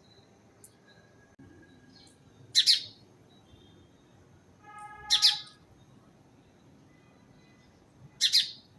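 Birds calling: three loud short calls, each a quick double note, spaced about two and a half to three seconds apart, with fainter chirps between them.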